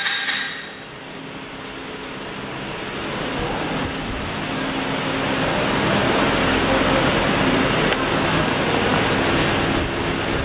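Electric welding arc giving a steady hissing crackle that builds over the first few seconds and then holds.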